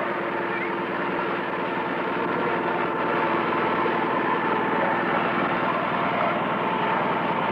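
Canal boat engine running steadily with an even, rapid low pulsing.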